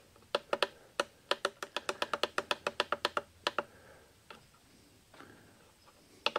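Rapid button presses on a GardePro A60 trail camera's keypad as the date and time are stepped through, each press a short, sharp click, about six a second for the first three seconds or so. A few slower, fainter clicks follow.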